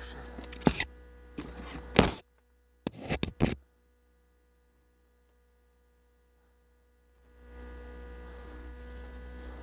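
A steady electrical hum with a few sharp clicks or knocks. About three and a half seconds in, the sound drops out to dead silence for several seconds, and the hum then fades back in.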